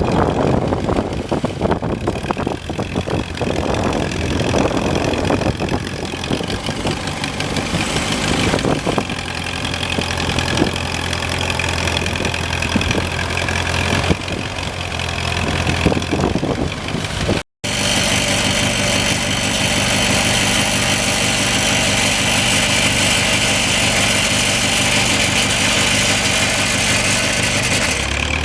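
Allis-Chalmers D14 tractor's four-cylinder engine running, with irregular knocks and clatter over the engine note in the first part. After a sudden break about two-thirds through, it runs at a steady idle with a high whine over it.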